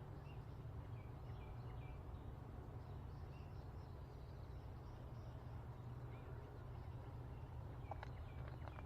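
Faint outdoor ambience: birds chirping softly and intermittently over a low, steady rumble.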